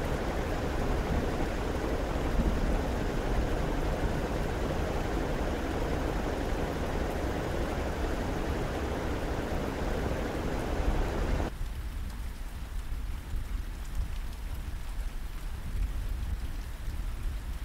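Whole chicken frying in hot oil in a pan, sizzling and crackling steadily. About eleven seconds in the sizzle cuts off abruptly to a quieter, duller hiss with a low rumble underneath.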